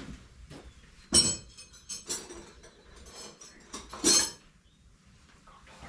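Metal hand tools clinking and ringing as they are handled and knocked together, with the loudest clinks about a second in, two seconds in and four seconds in.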